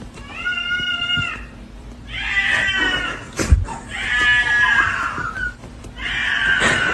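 A cat meowing in four long, drawn-out calls. There is a sharp knock between the second and third call.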